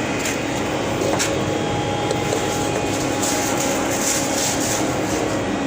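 Steady mechanical hum with faint constant tones over even background noise, with a few faint ticks.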